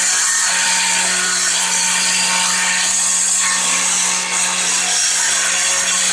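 A power tool running steadily under load, a constant motor hum with a loud hiss of cutting over it.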